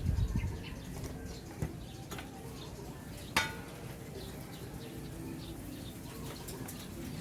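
Birds calling in the background, with many short high chirps scattered throughout. A sharp click with a brief metallic ring stands out about three and a half seconds in, and a smaller click comes just after one and a half seconds.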